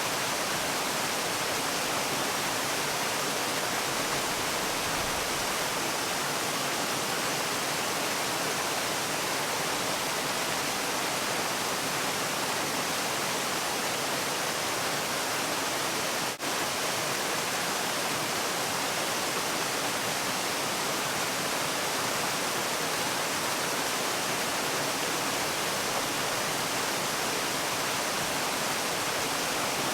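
Waterfall, a steady rush of falling water, even and unbroken, with a momentary drop in level a little past halfway.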